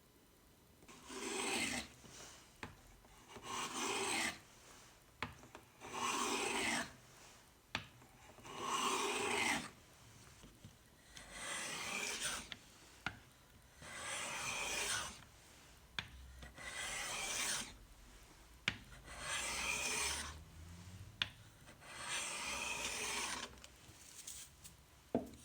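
Small hand plane shaving wood in nine steady strokes of about a second each, one every two and a half seconds or so, with light clicks between strokes as the plane is set back on the wood.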